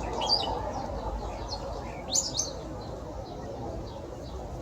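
Birds chirping: a few short, sharp high calls near the start, a louder cluster about two seconds in, and fainter chirps between.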